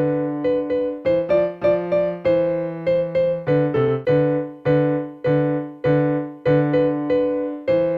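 Electronic keyboard playing a two-hand exercise: a low line and a higher line of struck notes, each dying away, with the hands in different rhythms at about two or three notes a second.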